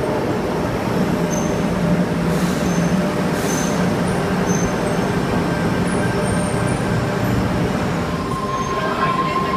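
Tangara electric train pulling into an underground platform: a steady hum of the moving train with a few brief high wheel squeaks. About eight seconds in, a steady high tone sets in as it slows to a stop.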